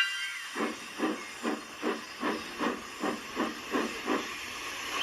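Steam locomotive chuffing at an even, moderate pace, about ten exhaust beats at roughly two and a half a second, starting about half a second in and fading out near the end.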